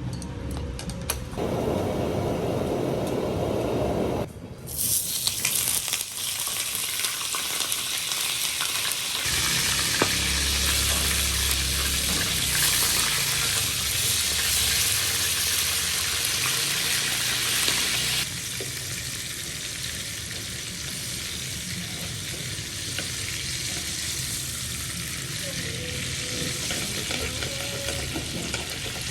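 Hot oil sizzling loudly as pieces of Titan triggerfish belly fry in a pan. The sizzle sets in sharply about four seconds in, after a shorter, lower rushing sound, and eases off somewhat after about eighteen seconds.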